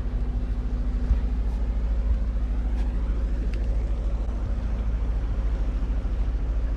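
A boat's engine running steadily: a low, evenly pulsing rumble with a steady hum above it.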